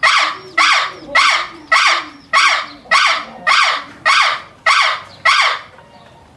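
A wild animal's harsh call repeated about ten times, roughly one every 0.6 seconds, each call dropping in pitch; the series fades near the end and cuts off.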